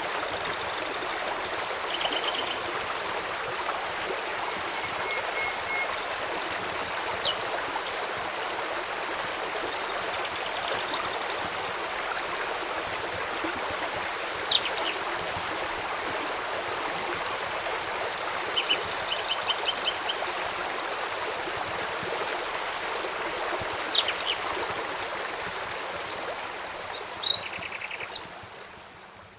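Steady rushing of a flowing river, with birds chirping and giving short repeated trills over it and a few sharp pops. The whole mix fades down near the end.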